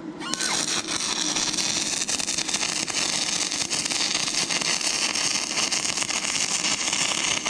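Stick (arc) welding: an inverter arc welder's electrode arc strikes about a third of a second in and burns steadily with a continuous crackling, frying hiss as a bead is run along rusty, painted metal.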